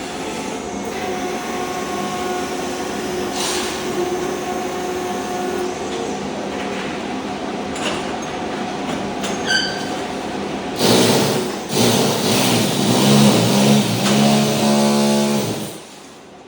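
Ride-on floor scraper working its blade across a concrete slab, scraping off thin-set tile mortar with a steady, rough grinding noise. About two thirds of the way in it gets louder, with a low droning hum as the machine works harder, and near the end it drops away sharply.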